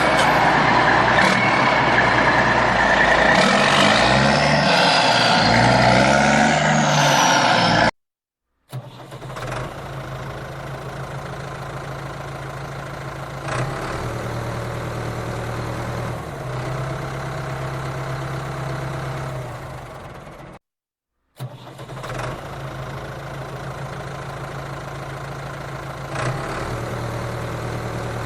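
Vehicle engine sound: loud and rising and falling in pitch like revving for the first part, then settling to a steadier idle-like hum. It is broken twice by sudden short silences, as if edited together from separate pieces.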